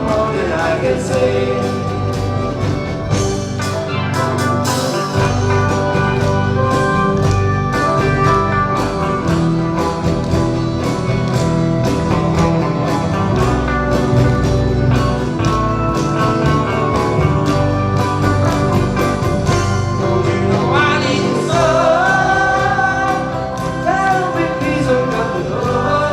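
A live band playing an oldies pop song with a steady beat, with a singer's voice.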